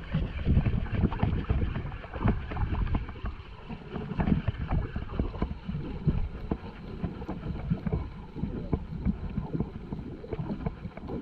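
Small fishing boat on the sea: water slapping and knocking irregularly against the hull, with wind on the microphone.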